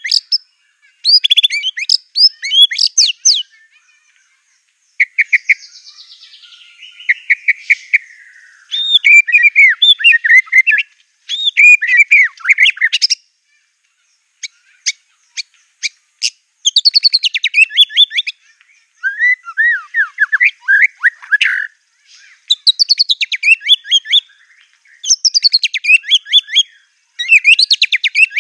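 White-rumped shama (murai batu) singing, phrases a second or two long with short gaps between them, including a long falling whistle and a run of sharp clicking notes. Its song is filled with phrases mimicked from canary and other birds.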